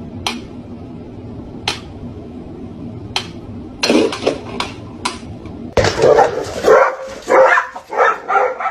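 A dog barking several times in quick succession in the second half, after a few sharp clicks, over a steady low hum.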